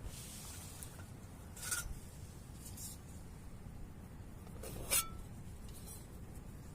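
Steady low rain noise with three short scraping, rubbing sounds, the loudest about five seconds in.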